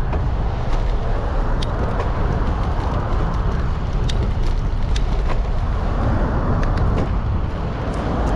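Steady wind and road rumble on a bicycle-mounted action camera's microphone while riding, with scattered small ticks and knocks from the bike.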